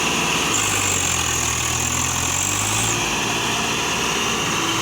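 Sonalika tractor's diesel engine running steadily, its pitch shifting slightly a couple of times, with a thin high whine above it.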